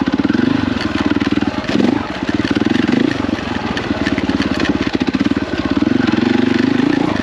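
KTM 450 EXC dirt bike's single-cylinder four-stroke engine running under load, the throttle eased off and opened again several times.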